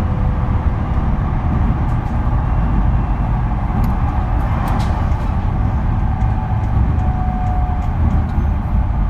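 Steady running noise inside an E231-series commuter train motor car (MoHa E230) travelling at speed: a continuous rumble of wheels on rail and traction gear, with a few faint clicks about four to five seconds in.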